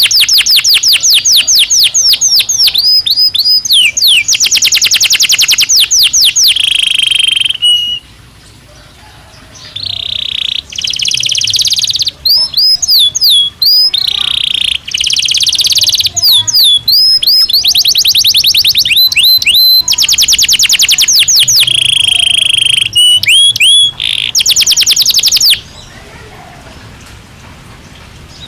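Belgian canary singing: long rolls of fast, evenly repeated high notes alternating with short swooping notes. The song breaks off for about two seconds around eight seconds in, then stops about three seconds before the end, leaving a faint hiss.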